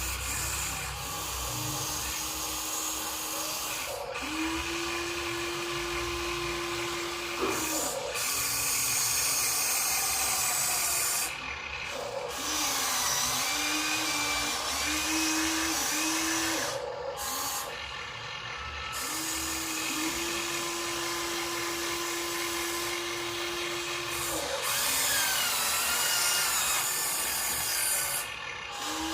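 Small electric motors and plastic gearboxes of a Huina RC dump truck whining in stretches of a second to several seconds, starting and stopping again and again, with the pitch rising and falling now and then.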